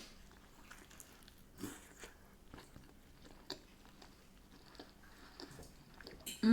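A person chewing a mouthful of fish and chips close to the microphone: soft wet mouth clicks and a few light crunches, with a brief louder mouth sound at the end.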